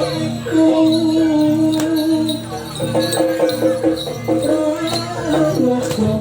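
Live Javanese jaranan ensemble music: a melody of held and stepping notes over a repeating low drum pattern, with bells jingling.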